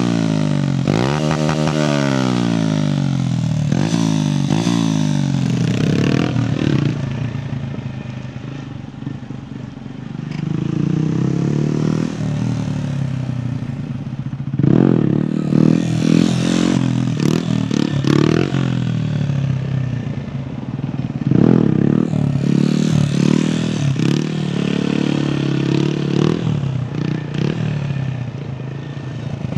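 Honda MSX 125 (Grom) single-cylinder engine through an aftermarket exhaust, revving up and dropping back again and again. Engine speed falls off to a quieter, lower stretch about eight to ten seconds in, then picks up with quick rev blips.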